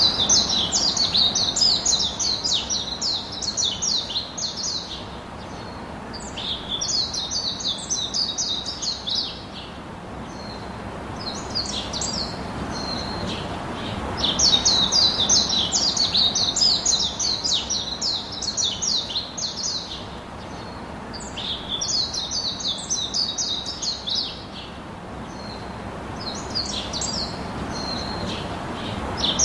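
Bird song: repeated bouts of rapid, high chirping, each a few seconds long with short pauses between, over a steady background hiss.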